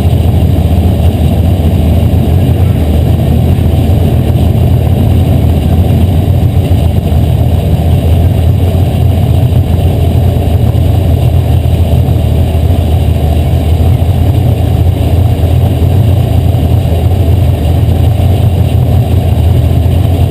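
Asphalt modified race car's V8 engine running hard at racing speed, a loud, steady drone with little rise or fall in pitch.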